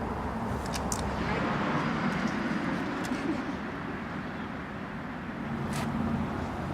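Steady low vehicle rumble, with a few brief clicks.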